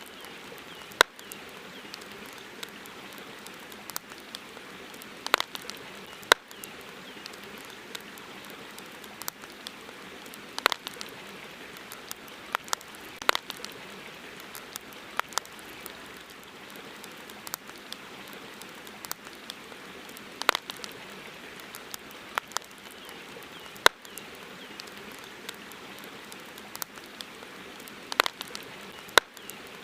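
Campfire crackling: irregular sharp pops and snaps, a few every couple of seconds, over a steady soft hiss.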